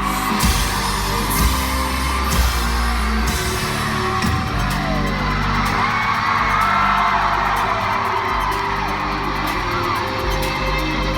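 Live concert music playing loudly through a theatre PA, with heavy bass and a few booming hits in the first three seconds, while the audience screams and whoops.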